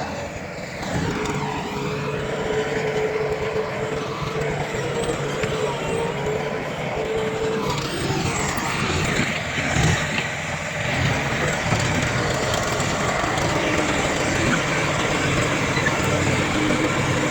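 Heavy earthmoving machinery at work: a steady diesel engine drone from a bulldozer and dump trucks, with a wavering squealing whine that comes and goes through the first half.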